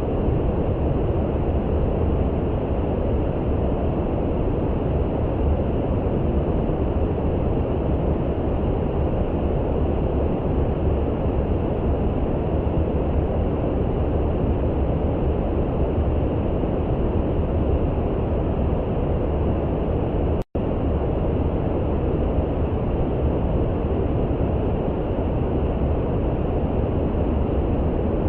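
Steady brown noise, a deep even hiss with most of its weight in the low end, broken by a momentary dropout to silence about twenty seconds in.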